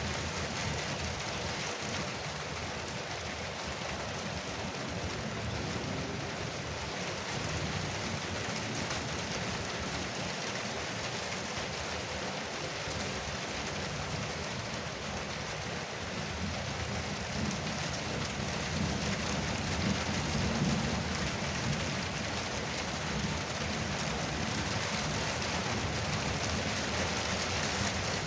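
Heavy rain drumming steadily on a porch roof. A low rumble swells up about two-thirds of the way through and then settles.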